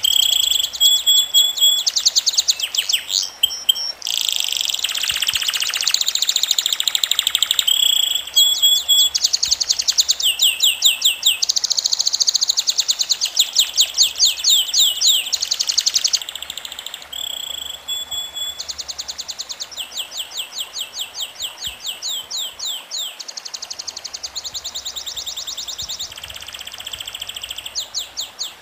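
Songbirds singing: fast runs of high chirps, each note sweeping downward, repeated as quick trills. It gets quieter about sixteen seconds in.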